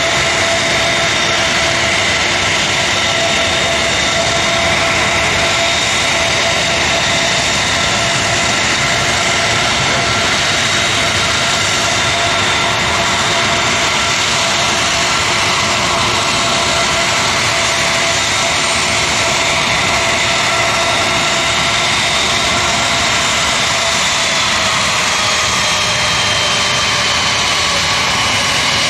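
Military aircraft turbine engines running loud and steady, with several high whining tones over the noise; the whine slowly drops in pitch near the end.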